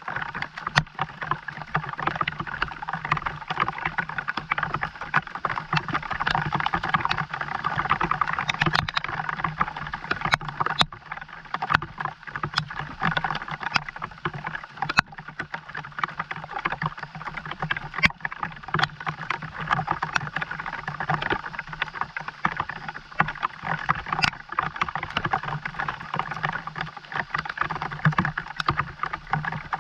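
Steady rain falling: a dense crackle of drops, with sharper single drips every second or two, over a low steady hum.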